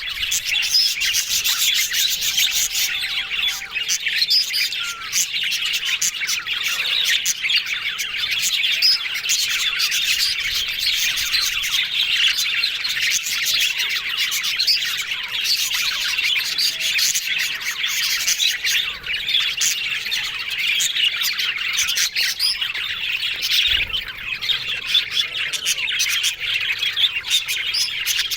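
Budgerigars chattering and chirping, a dense, continuous warble of many overlapping quick chirps and squawks.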